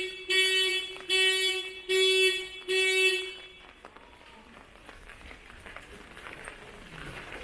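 A vehicle horn sounding a run of evenly spaced beeps, about one a second, each on one steady pitch; the beeps stop about three seconds in, leaving a low street background.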